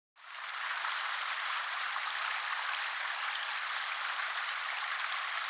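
A steady, finely grained patter of noise like rain falling on a surface, fading in over about half a second at the start.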